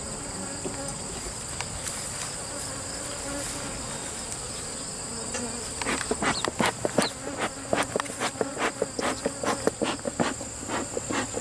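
Honey bees buzzing in a steady mass around an opened hive, stirred up after one was crushed and bees are striking the beekeepers' hands. About six seconds in, a quick run of sharp clicks and knocks starts over the buzzing and keeps going.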